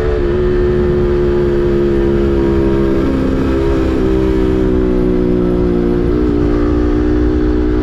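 Yamaha MT-15's 155 cc single-cylinder engine breathing through an SC Project full-system aftermarket exhaust, running at a steady pitch with brief small dips in revs about three and six seconds in.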